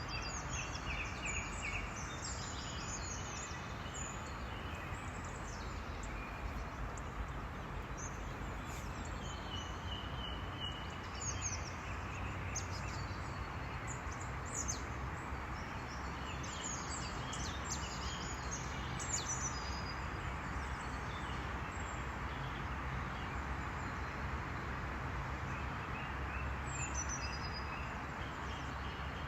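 Birds chirping and calling, many short high notes scattered throughout, over a steady background noise.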